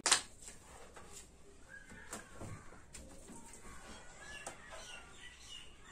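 A sharp click at the very start, then faint bird chirps, with a few soft knocks and rustles.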